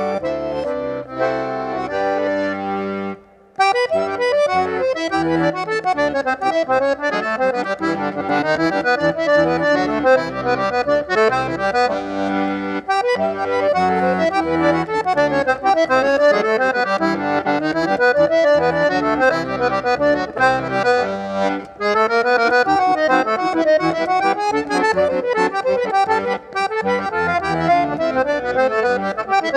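Accordion with more than eight basses (a full bass accordion) being played: a few held chords open, then after a short break about three seconds in, fast virtuosic runs of notes.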